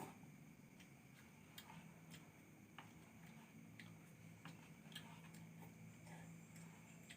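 Near silence with faint, irregularly spaced sharp ticks, about one or two a second, over a faint steady low hum.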